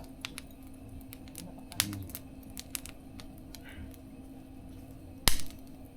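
Wood fire crackling, with scattered sharp pops and one loud pop about five seconds in, over a faint steady hum.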